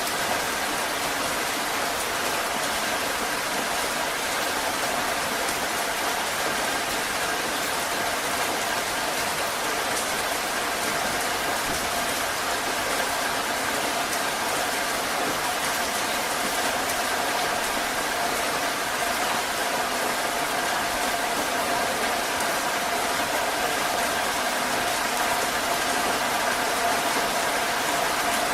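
Heavy rain falling steadily as a dense, even hiss that does not change, with two faint steady tones under it.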